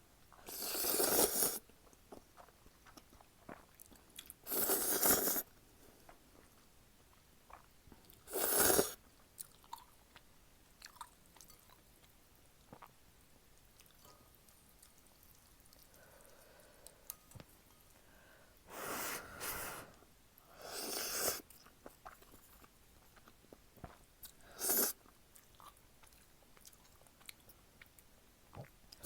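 Jjapaguri noodles being slurped up close in short, loud bursts, about six times, with faint chewing between them.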